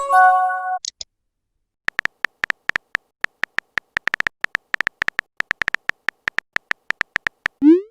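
Chat-app sound effects: a short chime of a few stacked tones, then a fast run of typing clicks for about five seconds, ending in a quick rising swoosh like a message being sent.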